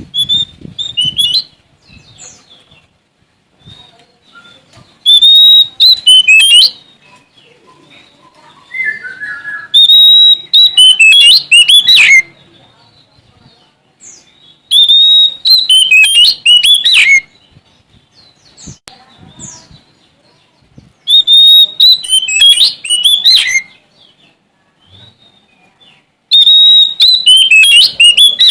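Oriental magpie-robin (Sumatran kacer) singing: five loud song phrases a few seconds apart, each about two seconds long, opening on a short held whistle and breaking into quick varied notes.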